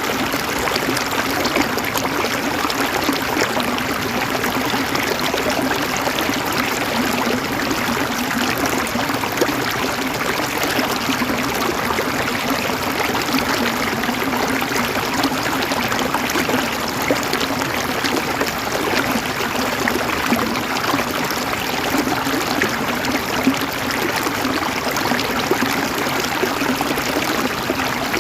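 River water flowing and gurgling over rocks, a steady unbroken rush.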